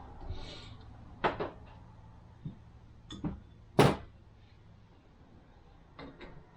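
Several short knocks and clicks of parts and tools being handled on a workbench during a transmission rebuild, the loudest just under four seconds in and a quick pair near the end.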